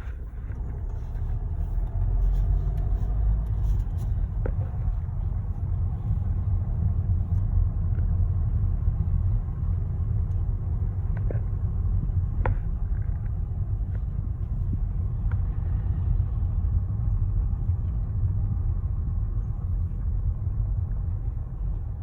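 Steady low rumble of a car driving, with engine and road noise and a few faint clicks.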